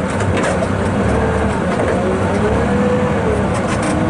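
Caterpillar 980M wheel loader's diesel engine running steadily under work, with a whine that wavers in pitch and rises near the end.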